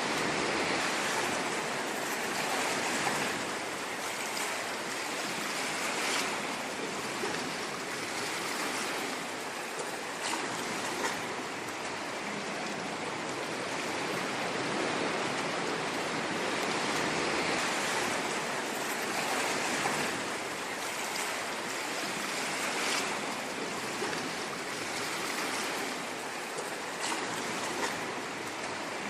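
Ocean waves washing on a shore, a continuous hiss that swells gently and falls back every few seconds.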